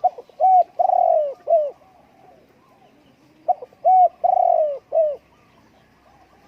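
Spotted dove cooing: two phrases about two seconds apart, each a run of three or four arched coos with one longer note in the middle.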